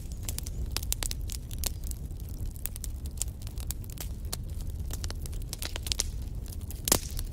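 Wood fire crackling in a fireplace: many sharp pops and snaps from burning logs over a low steady rumble of the flames, with one louder pop near the end.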